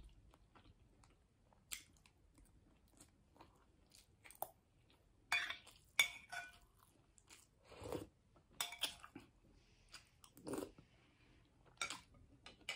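A person chewing a mouthful of fried rice close to the microphone, mouth partly open, with irregular wet clicks that come louder and closer together from about five seconds in.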